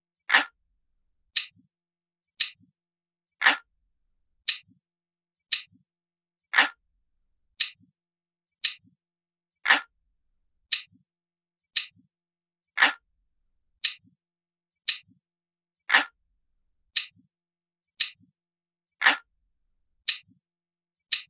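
Clock ticking with a crisp, glass-like tick about once a second, every third tick louder and fuller than the two between.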